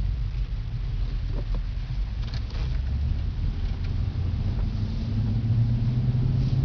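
2011 Cadillac CTS-V Coupe's supercharged 6.2-litre V8 running while the car is driven, with low road rumble. The engine note grows louder and steadier about five seconds in.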